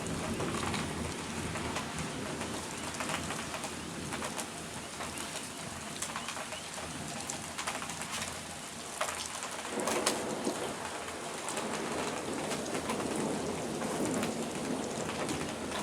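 Rain falling steadily in a thunderstorm, with close drips and splashes ticking over the hiss.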